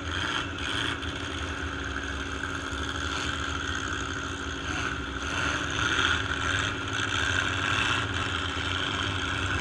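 Several demolition derby trucks' engines running at idle together, a steady rumble with no revving.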